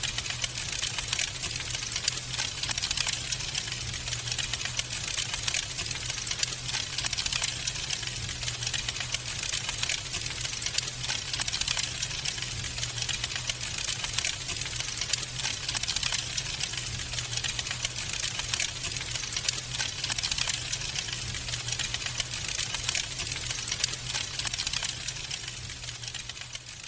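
Wood fire crackling in a fireplace: a dense run of small pops and snaps over a steady low rumble of the burning fire, easing off near the end.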